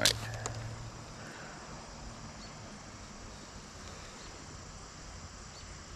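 Faint, steady chirring of insects in quiet pond-side air, after a brief sharp sound right at the start.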